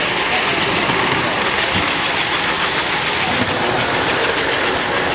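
A model train running steadily on its track, a continuous even running noise.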